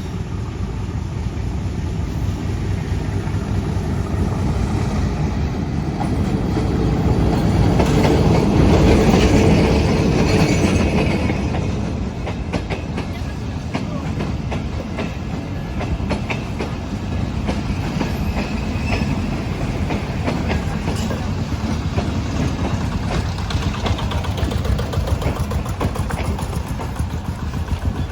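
Local passenger train running on the rails: a steady rumble with wheels clattering over the track, swelling louder for a few seconds near the middle and then easing back.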